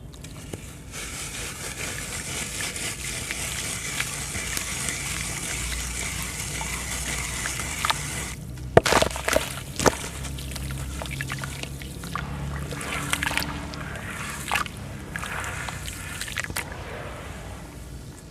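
Sand-cement crumbling in water: a steady trickling, sloshing hiss, then several sharp cracks and splashes about nine to ten seconds in, with smaller crumbling crackles after.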